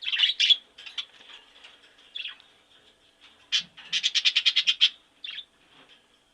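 Bird chirping: short high chirps, with a quick trill of about a dozen evenly spaced notes near the middle.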